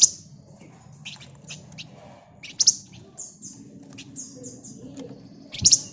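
Flamboyan songbird (wergan Jawa) singing in a busy, tightly packed stream of high chirps and rapid runs of short descending notes, with loud sharp calls at the start and near the end.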